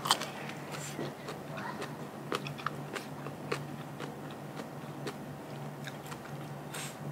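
A person chewing and crunching a mouthful of papaya salad and crisp raw vegetables close to the microphone, with irregular sharp crunches and wet mouth sounds.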